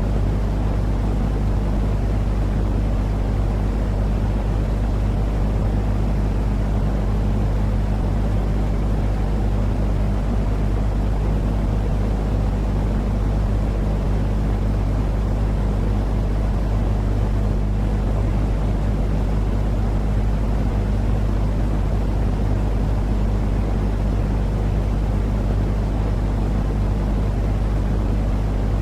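Continuous soothing noise for a baby's sleep: an unchanging deep drone with steady low hum tones and a softer hiss above them.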